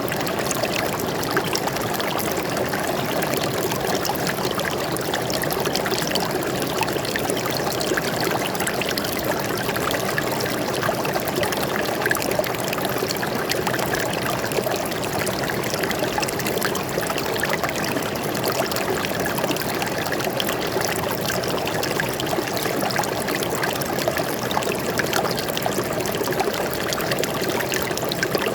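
Water flowing steadily in a stream, a continuous rushing and trickling without change.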